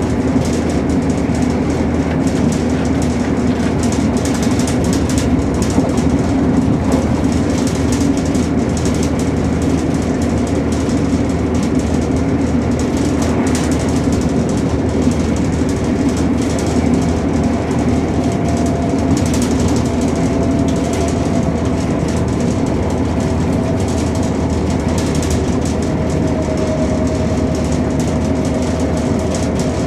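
Running noise inside a Chiltern Railways Class 168 diesel multiple unit travelling at about 70 mph: a steady loud rumble of wheels on rail with occasional light clicks. A faint steady whine comes in about two-thirds of the way through.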